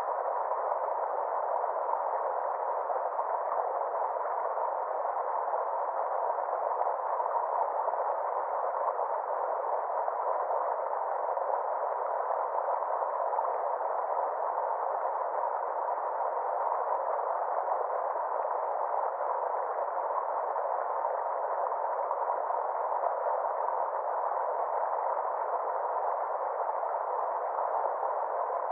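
River water rushing steadily, an even, unbroken wash of sound with no deep rumble and no bright hiss, as if narrowly filtered.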